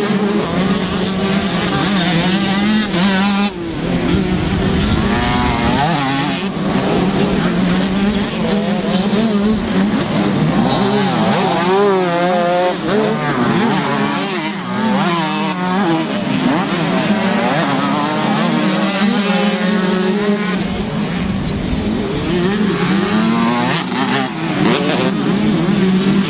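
Several 125cc two-stroke motocross bikes racing, their engines revving hard, the pitch repeatedly rising and dropping as the riders open and close the throttle and shift gears.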